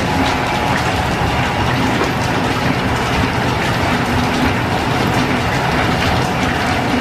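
Steam-driven line-shaft workshop machinery running steadily, with the lathe turning slowly in back gear to cut a square thread. It is a continuous mechanical running noise with a faint steady tone and light regular ticking.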